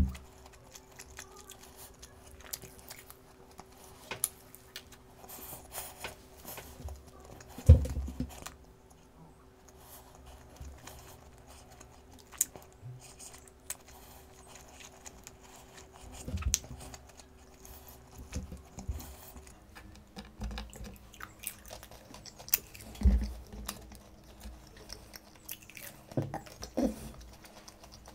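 A person chewing and crunching crispy fried chicken close to the microphone, with small mouth clicks throughout. A few louder thumps come about 8, 16 and 23 seconds in.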